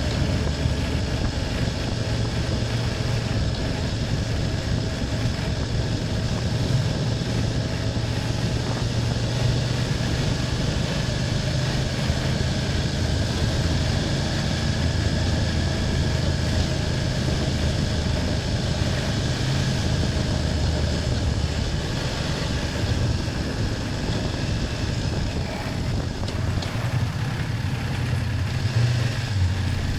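BMW F800GS parallel-twin engine running steadily at a cruise, its note shifting a little near the end.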